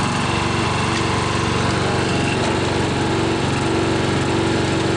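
Briggs & Stratton engine of a 12 hp Craftsman lawn tractor running steadily while the tractor is driven.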